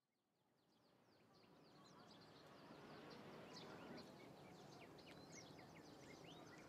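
Faint outdoor ambience fading in about a second in, with small birds giving many short, high chirps throughout.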